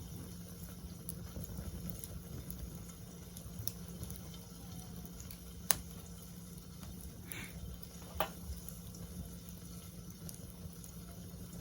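Wood campfire burning in a fire pit: a low steady rustle with scattered faint crackles, and two sharp pops about six and eight seconds in, with a brief hiss just before the second.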